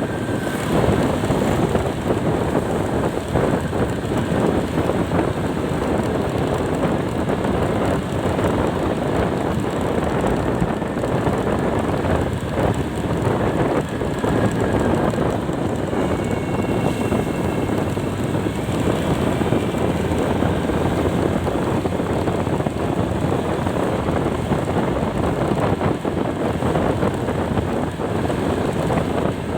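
Steady rush of wind on the microphone of a moving vehicle, with the vehicle's running and road noise beneath it.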